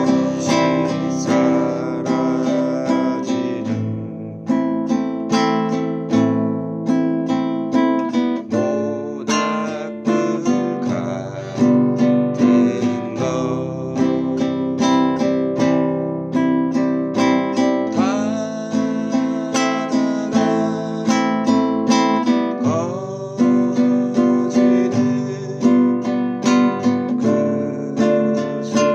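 Acoustic guitar strumming chords in a steady rhythm, with the chord changing every few seconds.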